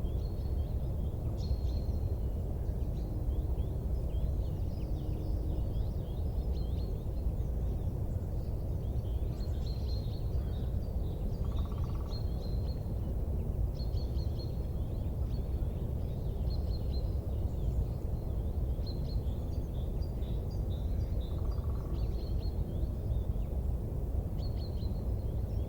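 Many small birds chirping over a steady low rumbling noise, with no distinct crackles or pops.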